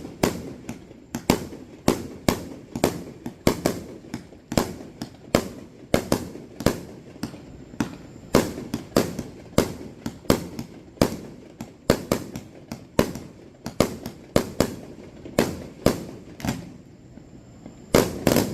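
Aerial fireworks going off in rapid succession: sharp bangs about two a second, each trailing into a short echo. They pause briefly near the end, then a cluster of louder bangs goes off together.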